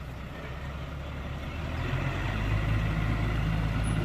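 Heavy diesel engine of earthmoving machinery running steadily, growing louder about halfway through.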